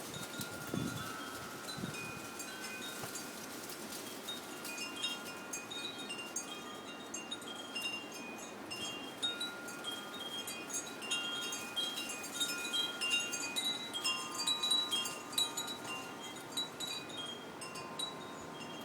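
Porch wind chimes ringing in gusty wind, tubes striking irregularly at several fixed pitches, busiest in the second half, over a steady wind hiss.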